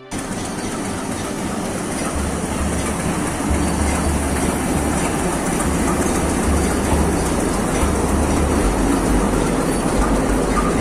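A train moving along the rails, its rumble growing louder over the first few seconds and then holding steady.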